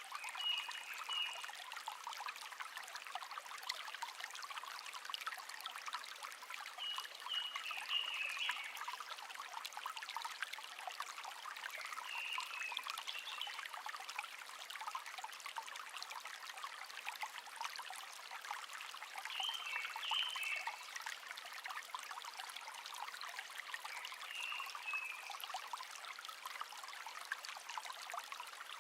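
Small shallow stream babbling and trickling steadily, with a songbird giving short chirping phrases about every five to seven seconds, five in all.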